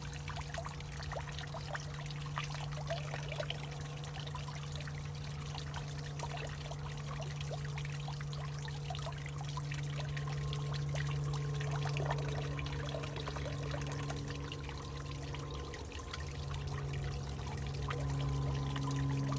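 Water trickling and pouring in a hollowed-out tree, full of small drips and splashes over a steady low hum, with fainter higher tones joining in the second half.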